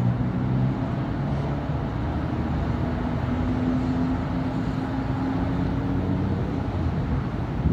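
Steady road traffic on a busy city avenue: engines and tyres of passing vehicles, with a low engine drone that holds for a few seconds mid-way.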